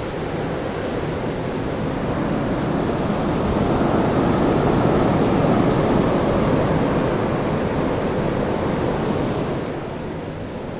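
Hurricane Sandy's wind gusting: a loud rushing that swells to a peak midway and eases off near the end.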